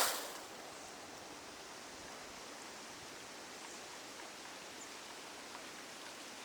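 Steady, even outdoor forest ambience hiss with a few faint scattered ticks, opening with a short, louder burst of rustling noise right at the start.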